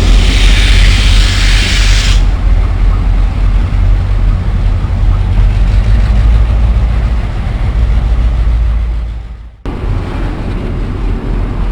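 Heavy, steady low rumble of a moving passenger train heard from on board. A hiss on top stops about two seconds in. The sound fades near the end, breaks off, and comes back as a somewhat quieter rumble.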